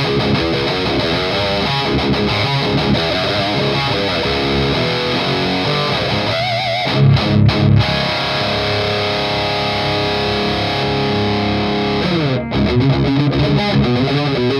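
Electric guitar played through a Noise Pollution Pedals Psycho Metal Death Machine high-gain distortion pedal: heavy distorted riffing, a few short choppy hits about seven seconds in, then a chord left ringing for several seconds before a downward slide and more riffing.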